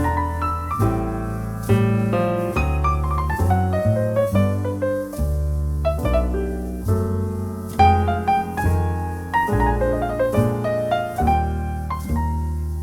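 Jazz piano playing a slow ballad: a single-note melody with runs over sustained low chords.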